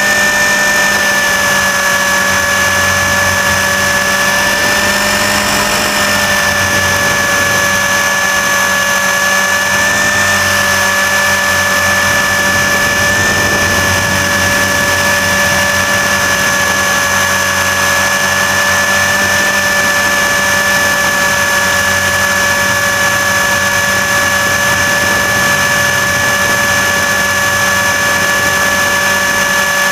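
An RC helicopter's motor, drivetrain and rotors running steadily, heard close up from a camera mounted on the helicopter: a loud, steady whine whose pitch wavers slightly a few times.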